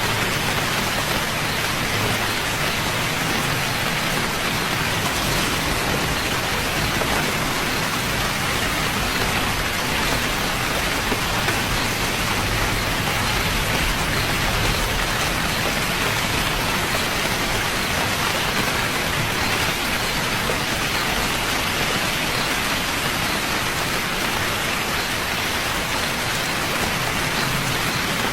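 Steady rainfall, an even hiss of drops on a surface with no distinct claps or pauses.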